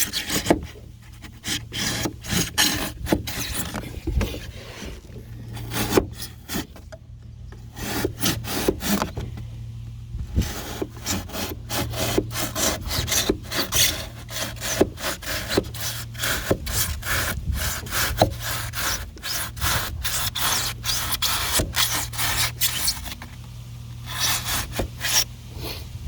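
Drywall knife sawing back and forth through old pour-in flotation foam in an aluminum boat, in quick rasping strokes with a couple of short pauses.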